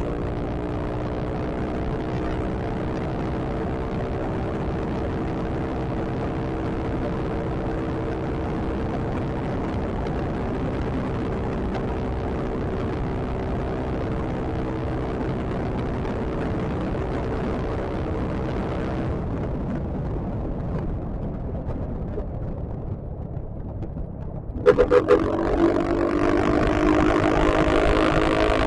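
Yamaha XMAX scooter's single-cylinder engine running at a steady cruising speed, with road and wind noise. About 19 s in the engine note fades as the throttle is eased off, and about 25 s in it comes back suddenly and louder as the rider accelerates again.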